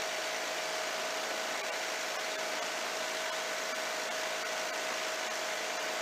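Legal Eagle ultralight in flight: steady drone of the engine and propeller mixed with rushing air, with one held tone over an even hiss.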